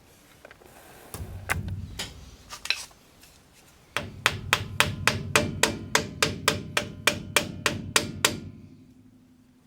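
A hammer tapping the grease-packed dust cap onto the front wheel hub of a 1966 Ford F100 after the wheel bearing is repacked: a few knocks and some handling noise, then a quick, even run of about eighteen sharp metallic taps, roughly four a second, that stops a second before the end.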